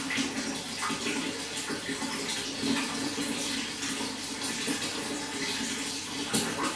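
Running water flowing and splashing in a steady rush, with small irregular splashes and a slightly louder splash near the end.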